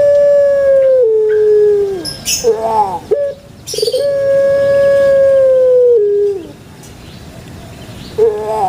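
Puter pelung dove, a domestic ringneck dove kept for its long call, giving two long coos. Each is held on one steady note, then steps down and slides off at the end, with short warbling notes between them and a few more near the end.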